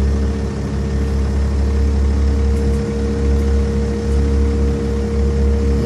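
2008 Ram 2500's Cummins inline-six turbo diesel idling steadily: a constant low rumble with a steady hum above it.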